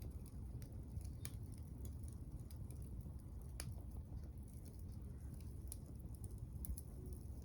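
Small wood fire burning in a compact secondary-combustion camping wood stove: scattered sharp crackles and pops from the burning wood over a low steady rumble.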